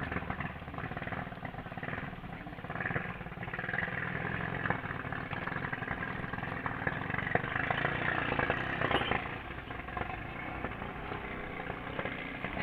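Small Sogo petrol engine of a ketinting longtail racing boat running under throttle. Its drone swells in the middle and eases off near the end.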